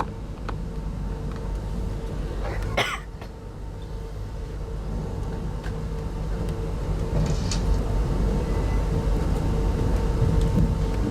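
Steady low rumble of a moving passenger train heard from inside the coach, with a steady hum over it. A brief sharp noise about three seconds in.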